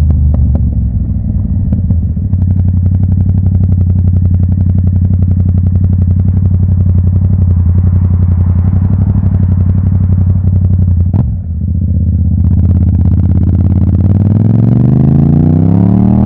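Yamaha MT-07 parallel-twin motorcycle engine running steadily under way. There is a brief break in the sound about eleven seconds in, and then the engine pitch climbs steadily as the bike accelerates near the end.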